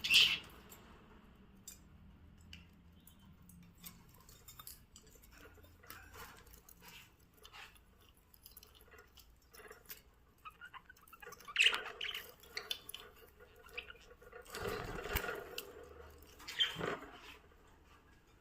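Budgies pecking at their food: scattered small clicks and ticks, with a few louder sharp pecks or knocks about two-thirds of the way through and near the end.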